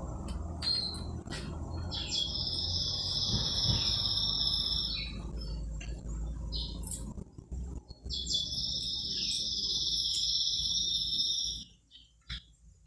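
A bird chirping in two long, high-pitched trills of about three seconds each, over the soft crunching of crackers being crumbled by hand into a bowl.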